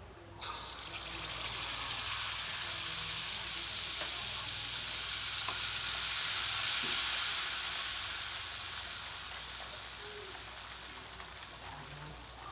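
Bánh tai yến batter hitting hot oil and sizzling in the pan: the frying hiss starts suddenly, swells, and then slowly dies down as the cake cooks.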